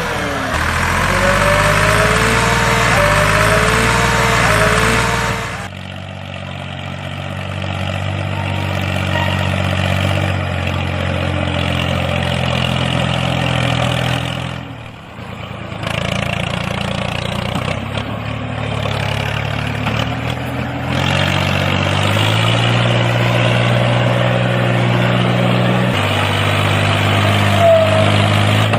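Tractor engine sound running at idle, its pitch shifting in steps, with several abrupt changes.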